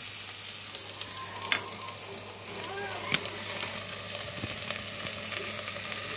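Chicken and onion pieces sizzling steadily as they fry in a pan, with tomato salsa just spooned in. A couple of light sharp clicks come through, about a second and a half in and again about three seconds in.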